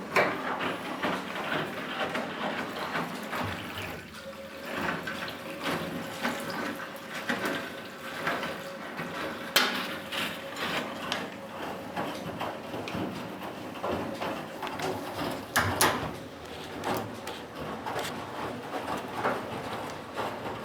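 1956 Eudora B09 semi-automatic washing machine running with water in it: steady sloshing and clattering, with sharp knocks about nine and sixteen seconds in.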